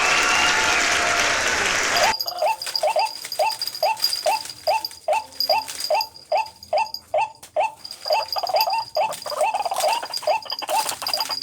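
White-breasted waterhen calling: a rapid, even series of short hooked notes, about three a second, beginning about two seconds in. Before that, a loud rushing noise with gliding tones cuts off suddenly, and a steady high tone runs beneath the calls.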